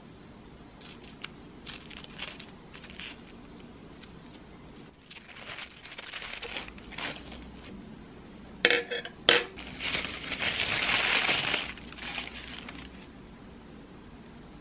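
Glass drinking straws clinking against each other and the tabletop as they are handled and set down, with rustling between. Two sharp clinks about nine seconds in are the loudest, followed by a couple of seconds of rustling.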